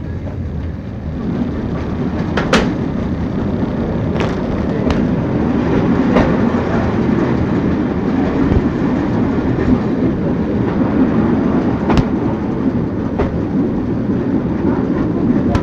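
Rhaetian Railway narrow-gauge steam excursion train running, heard from an open coach window: a steady rumble of wheels on the rails that grows louder about a second in, with several sharp clicks.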